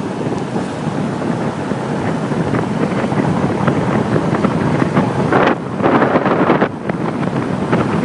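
Loud wind buffeting the microphone of a bicycle rider coasting fast down a hill, a steady rush of air with a few stronger gusts about five and a half seconds in.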